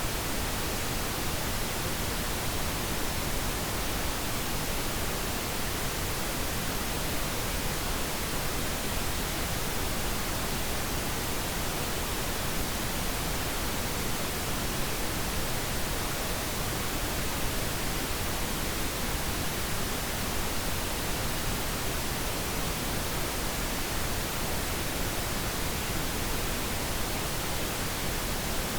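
Steady pink noise: an even, unchanging hiss spread across the whole frequency range, with no other events.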